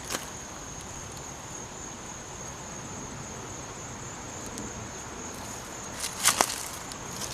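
A steady high-pitched insect trill, with a couple of footsteps about six seconds in.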